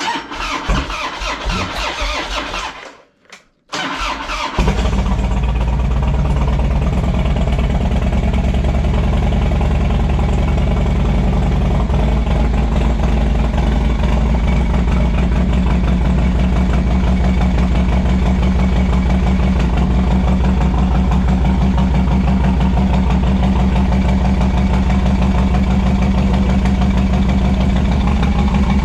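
Harley-Davidson V-twin motorcycle engine cranking on its electric starter, stopping briefly and cranking again, then catching about four and a half seconds in and idling steadily.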